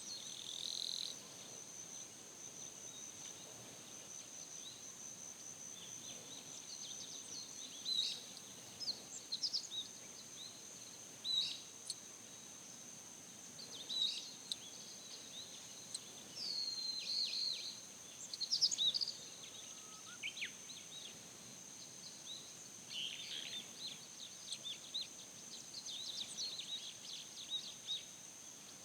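Birds chirping and singing in short phrases at irregular intervals, over a steady high-pitched insect drone.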